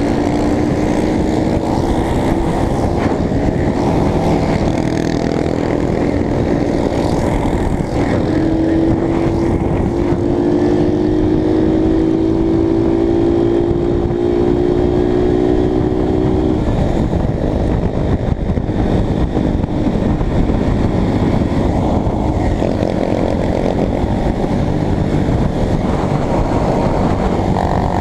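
Honda CBX 250 Twister's single-cylinder engine running under way over loud wind rush. Its pitch climbs steadily for several seconds in the middle as it accelerates, then drops away.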